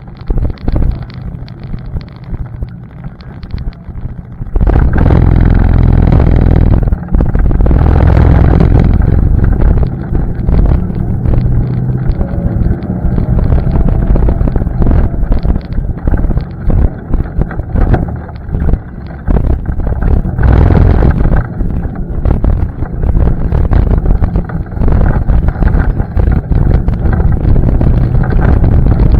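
ATV engine running while riding a trail, much louder from about four and a half seconds in, with many sharp knocks over it.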